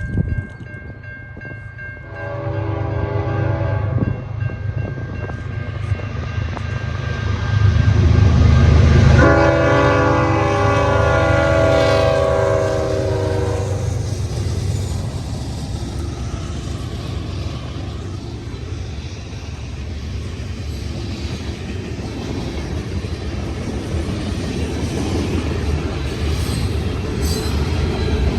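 CN freight train led by GE Evolution and Dash 9 diesel locomotives passing a level crossing, the lead unit sounding its Nathan K5HL five-chime air horn: a blast about two seconds in, then a longer, louder one from about nine to fourteen seconds as the locomotives go by. Afterwards the steady rumble and clickety-clack of the freight cars rolling past.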